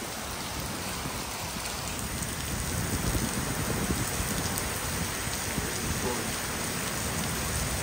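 Rain falling steadily in a thunderstorm.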